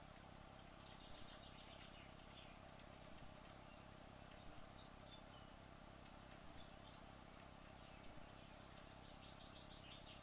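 Near silence: faint room tone with a steady low hum, broken by a few faint, short, high chirping trills, one about a second in and another near the end.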